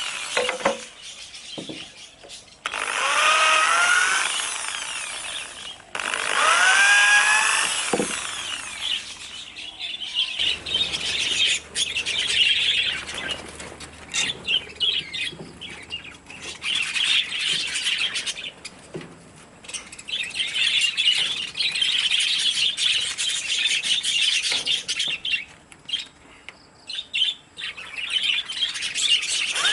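Handheld electric power tool run in short bursts, its motor whine rising as it spins up several times, then running more steadily with a rough, noisy cutting sound from about ten seconds in.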